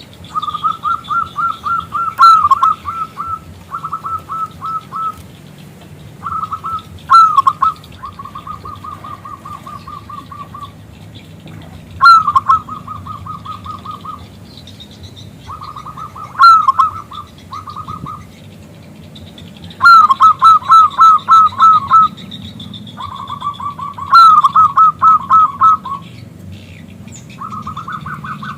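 Zebra dove (perkutut) cooing: a loud, repeated trill of rapid staccato notes in runs of one to two seconds, some starting with a sharper, higher note, with short pauses between runs.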